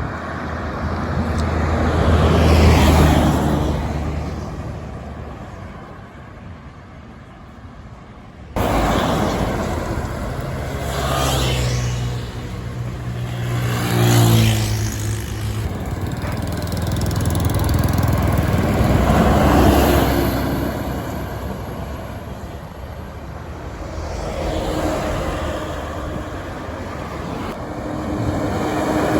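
Buses passing by one after another on a road, each engine swelling and fading as it goes by, about four pass-bys in all. The sound jumps abruptly about eight seconds in, as at a cut between clips.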